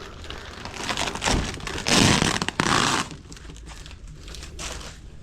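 Crinkling and rustling of material being handled, with scattered small clicks and a louder stretch of rustling about two seconds in.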